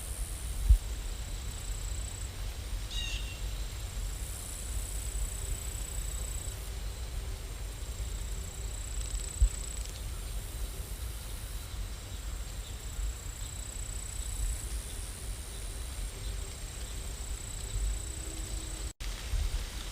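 Steady rain ambience with a high cricket chirring that breaks off and resumes, over a low rumble. Two soft knocks come about a second in and again near the middle.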